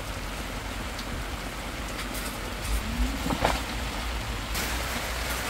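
Steady rain falling on a camping tarp: an even hiss with a few faint ticks, over a low rumble.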